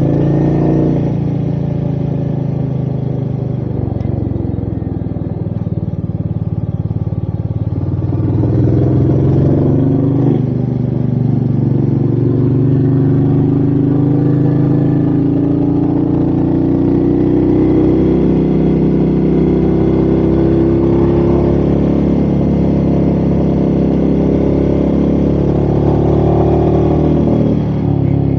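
Royal Enfield Meteor 350's single-cylinder engine under way, heard from the rider's seat: the engine note climbs and drops several times as the bike accelerates and shifts gear, with wind noise underneath.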